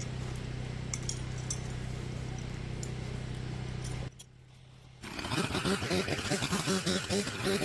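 A steady low engine hum with faint clinks and ticks, which cuts off about four seconds in. After a short lull a different, louder sound with a wavering pitch starts.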